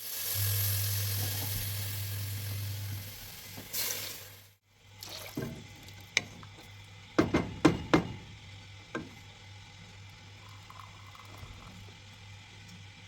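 Water poured from a container into a pot of fried beans, a steady rush for about three seconds with a short second pour just after, then a few light knocks against the pot.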